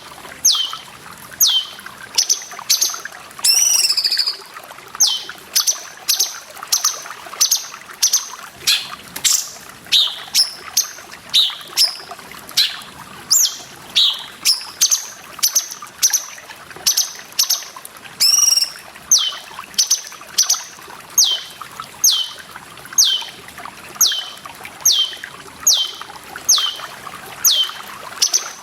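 Cucak cungkok calling over and over with short, high notes that fall sharply in pitch, about one and a half a second. Running water trickles steadily beneath the calls.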